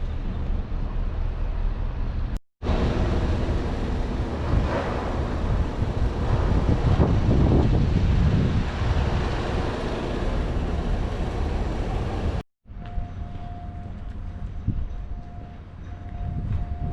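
Wind buffeting the microphone over outdoor ambience, broken by two brief cuts. After the second cut a steady tone sounds on and off.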